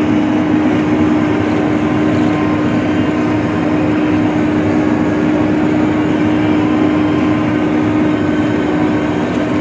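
Self-propelled swather running steadily while cutting hay: a constant engine and machinery drone with one strong, unchanging hum.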